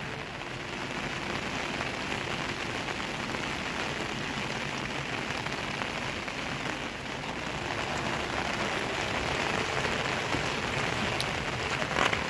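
Steady rain falling, an even hiss with scattered drop ticks, a little louder in the second half. A short sharp knock near the end.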